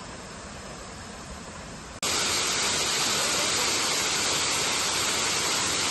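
Steady rush of falling water, which jumps abruptly louder and brighter about two seconds in and then holds steady.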